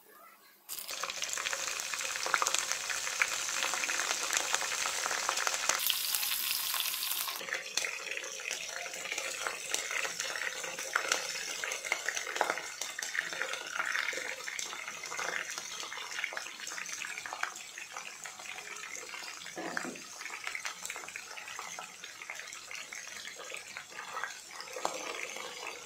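Mustard and cumin seeds frying in a pot of hot oil: a loud, steady sizzle starts suddenly about a second in. After several seconds it settles into a softer, crackling sizzle as chopped onions and green chillies go in and fry.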